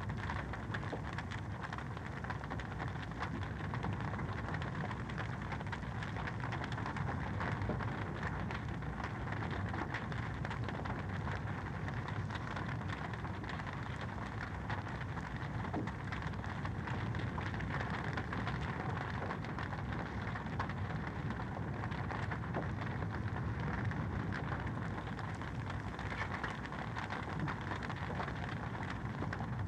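Wood fire burning in a fireplace, crackling steadily: a dense run of small crackles and pops over a constant hiss.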